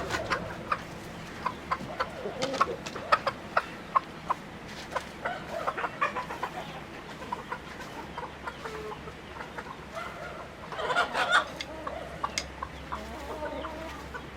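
Chickens clucking, with many short, sharp clicks and calls and a busier flurry of sound about eleven seconds in.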